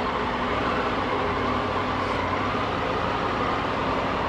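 Motorcycle engine running steadily at low speed, under an even rush of wind and road noise.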